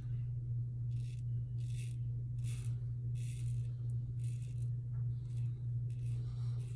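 Karve safety razor with a Gillette Super Thin blade scraping through lathered stubble in short strokes, roughly one a second, on a second pass across the grain. A steady low hum runs underneath.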